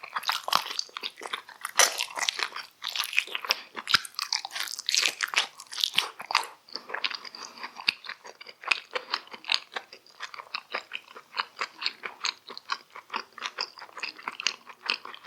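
Close-miked chewing and crunching of food in a person's mouth, a fast run of crisp, wet mouth clicks; louder, bigger bites for the first half, then softer, quicker chewing.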